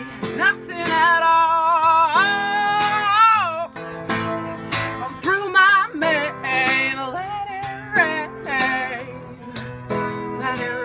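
A song with acoustic guitar strumming under a woman singing long held notes that waver with vibrato and glide between pitches.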